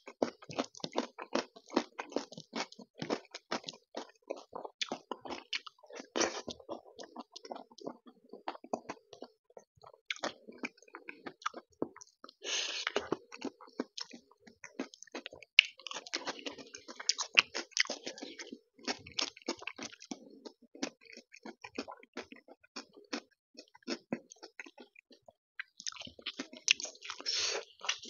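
Close-miked chewing of rice and taro root curry eaten by hand: a steady run of short, clicky mouth sounds and lip smacks. A few louder, longer stretches stand out about midway and near the end, while fingers mix rice and curry on the plate.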